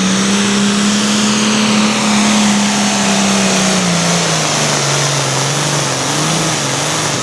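Ford pulling tractor's diesel engine running flat out under load, dragging the weight sled. Its note holds steady, then drops about four seconds in and wavers up and down as the engine bogs down toward the end of the pull.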